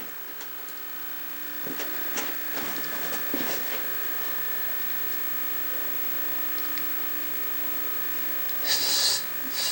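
Steady electrical buzz from a running 1963 Philco Courier portable TV set, with a few light clicks of handling about two to four seconds in and a short hiss near the end.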